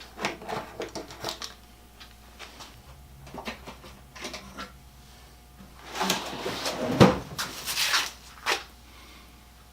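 Workshop handling sounds as parts and tools are picked up and set down: scattered clicks and rustles, then a busier run of knocks and rattles between about six and eight and a half seconds in, the loudest a thump about seven seconds in.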